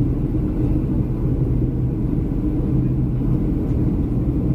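Steady low rumble of engine and airflow noise inside the cabin of a Boeing 737-300 airliner descending towards landing, with a constant hum.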